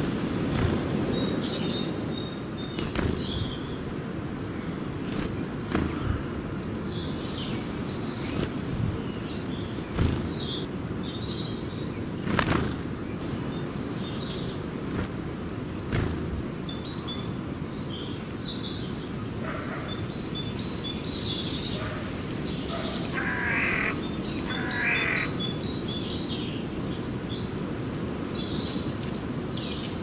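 A flock of small birds at a feeding spot, chirping and calling busily in short high notes, with a few louder, lower calls a little past the middle. Sharp clicks and taps come now and then over a steady low background rumble.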